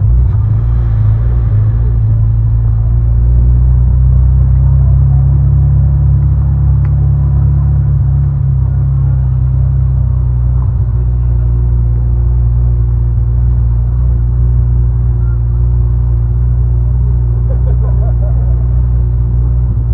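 BMW E34 525i's straight-six engine running at low revs while the car rolls slowly, a steady low drone.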